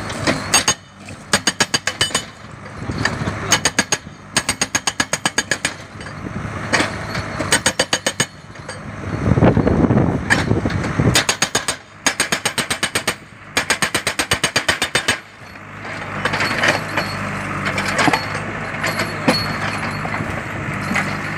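Hydraulic breaker on a JCB backhoe loader hammering in short bursts of rapid blows, with the diesel engine running underneath. The engine rises in level for a couple of seconds near the middle, and in the last few seconds runs steadily with only a few isolated knocks.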